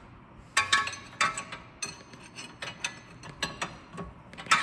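Hand wrench clicking and clinking on the steel lower mounting bolts of a front strut: a dozen or so irregular, sharp metallic clicks, the loudest about half a second in and near the end.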